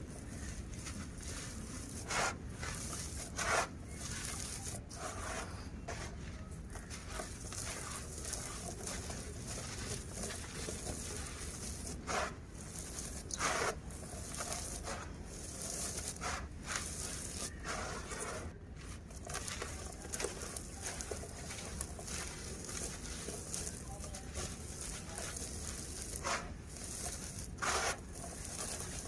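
Dry, gritty lumps of stony dirt being crumbled by hand: scattered short crunches every few seconds over a steady background hiss.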